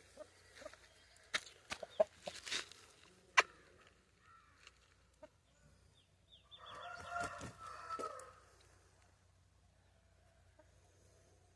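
Aseel rooster crowing once, a pitched call lasting nearly two seconds a little past the middle. A few sharp clicks or knocks come in the first few seconds.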